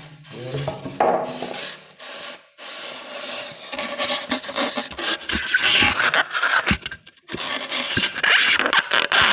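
Irregular strokes of hard scraping and rubbing on a rough surface, with a few light knocks among them.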